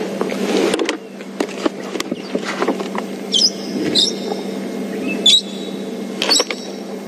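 Brown-headed parrots giving short, shrill shrieks, about four single calls spread through the second half.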